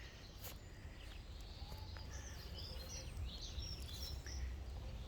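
Small birds chirping, a run of short high calls in the middle, over a low steady outdoor rumble.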